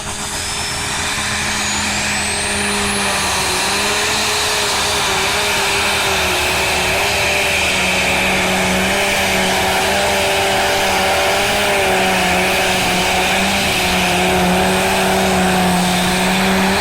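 Tractor-pulling engine running loud at high, nearly steady revs through a pull, with a high whine rising over the first three seconds.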